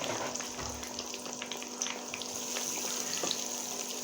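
Breaded chicken cutlets frying in hot oil in a pan: a steady sizzle scattered with small crackles, over a faint steady hum.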